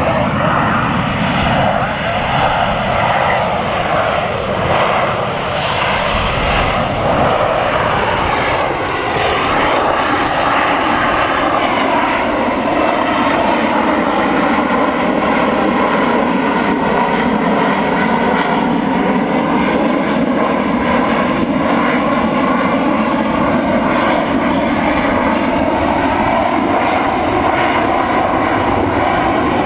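Harrier jump jet hovering, its Rolls-Royce Pegasus turbofan running loud and continuous at hover thrust. Several whining tones waver in pitch at first, then hold steady.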